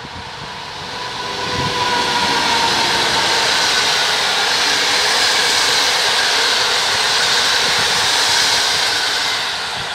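Passenger train of coaches hauled by an electric locomotive passing at speed: a loud rush of wheels on rail that builds over the first two seconds, holds steady while the coaches go by, and eases off near the end.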